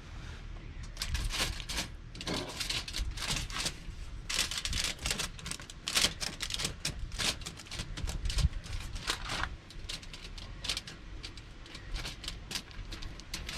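Irregular rapid clicks and clatter of small hard objects being handled, over a low background rumble.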